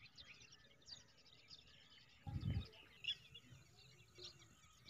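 Faint birdsong from many small birds chirping. There is a brief low thump about two and a half seconds in.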